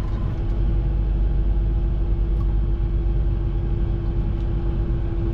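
Gleaner R72 combine's diesel engine running steadily, a low drone with a constant hum over it.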